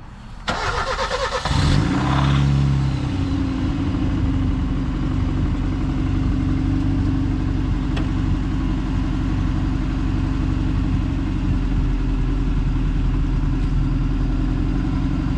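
1991 Mercury Capri's 1.6-litre four-cylinder engine cranked by the starter for about a second, catching quickly, flaring up briefly and settling into a steady idle.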